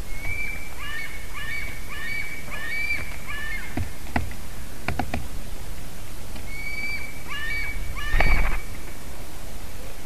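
Birds calling in two runs of short, quick, falling notes, the first at the start and the second near the end. A few sharp clicks fall in the middle, and a brief low rumble comes near the end.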